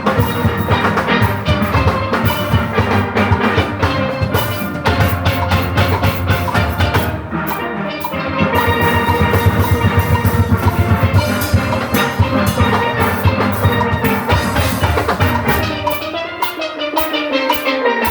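Steel orchestra playing a fast tune live: many steelpans sounding rapid rolled and struck notes over a drum kit and engine-room percussion.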